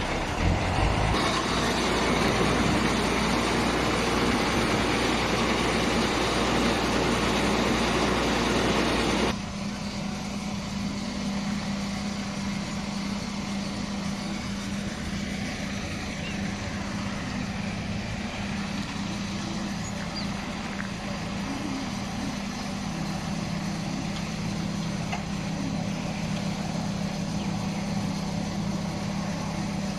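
Heavy diesel machinery engine running. For about the first nine seconds it is loud and rough, then it changes abruptly to a quieter, steady hum.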